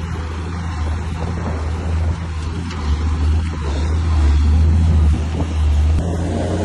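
Heavy diesel engine of an old Komatsu bulldozer running steadily with a deep, even hum, growing louder about three seconds in as it works.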